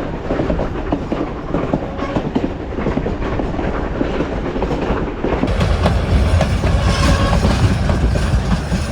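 Durango & Silverton narrow-gauge steam train rolling along the track: a steady rumble with wheels clacking and rattling over the rails. It gets louder and heavier about five and a half seconds in.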